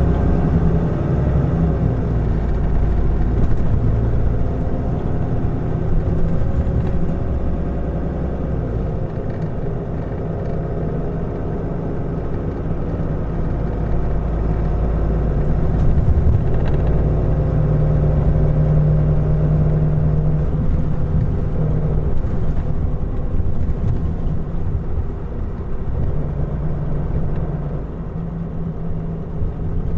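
Mitsubishi Fuso Aerostar city bus (QKG-MP35FP) heard from inside while driving: its six-cylinder diesel runs continuously, with the engine note rising and falling. Road and drivetrain noise run underneath.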